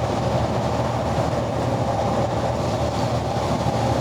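Semi-truck driving down the highway, heard from inside the cab: a steady engine drone with constant road noise and no changes.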